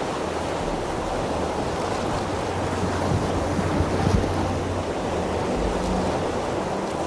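Seawater rushing and splashing at the surface, with a low steady hum underneath.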